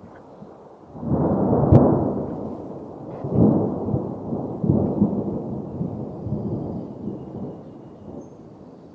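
Low rumble of a strong wind-and-rain storm that surges loud about a second in, swells again a few times and dies down, with a sharp crack near the loudest point.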